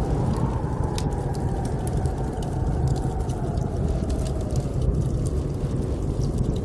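Blizzard wind howling with a deep steady rumble, its pitch swelling and easing slowly, with the small crackles and pops of a wood fire in a fireplace scattered throughout.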